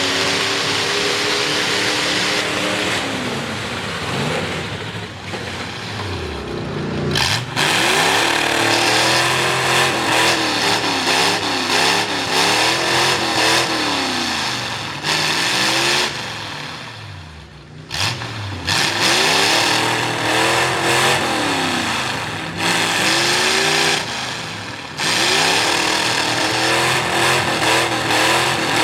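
V8 mud truck engine with open upright headers, revved hard over and over, its pitch climbing and falling with heavy throttle play. The revving drops away briefly three times as the throttle is lifted.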